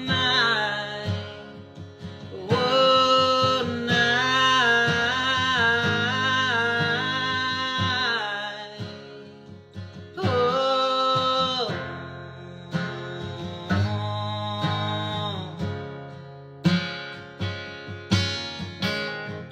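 Bluegrass/country-style music on plucked acoustic guitar, with a wavering melody line over it. It closes on a few sharp, separate plucked notes near the end.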